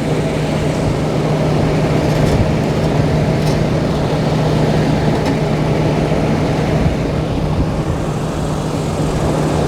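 Vehicle engine running steadily with the air conditioning blowing, heard from inside the cab: a constant low hum under an even rushing noise.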